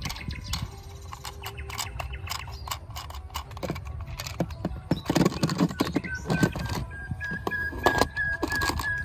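Plastic toy cars clattering as they are handled, with many small knocks and clicks. A steady high tone comes in about six seconds in.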